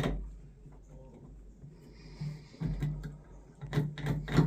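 Light clicks and knocks of metal hand tools being handled and fitted, sparse at first and busier near the end, over a faint low hum.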